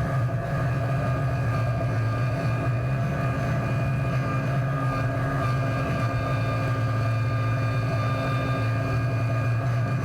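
Farm tractor's diesel engine running steadily at an even speed, a constant low drone with no change in pitch.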